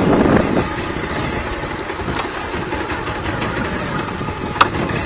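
Bajaj Pulsar 220 motorcycle engine running on the last of its fuel, sputtering toward a stall. The sound drops in level about half a second in and goes on lower and steady, with one sharp click near the end.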